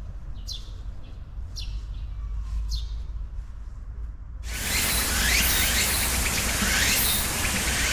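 A bird repeating a short, sharply falling high chirp about once a second. About halfway through, the sound cuts abruptly to a louder dense chorus of many birds chirping over a steady hiss.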